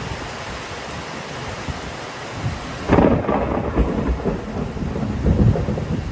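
Steady rain, with a clap of thunder breaking in suddenly about halfway through and rumbling on to the end.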